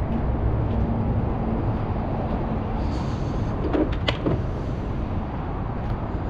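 Steady low rumble of a running vehicle engine, with a few sharp clicks and a short clank about four seconds in.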